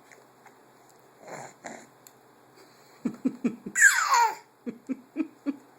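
A burst of laughter starting about three seconds in: a quick run of short laugh pulses, a loud high squeal that slides down in pitch, then more short pulses. Two soft breaths come before it.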